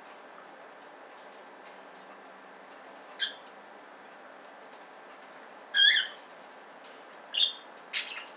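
Pet budgerigars giving four short, sharp chirps: one about three seconds in, then three close together in the last two and a half seconds, the loudest around six seconds in.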